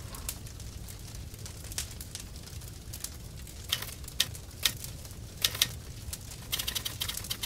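Wood campfire crackling, with irregular sharp pops and snaps and a quick run of them near the end.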